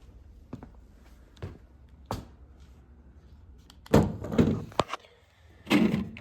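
A few light clicks, then two loud clattering knocks, one about four seconds in and one near the end.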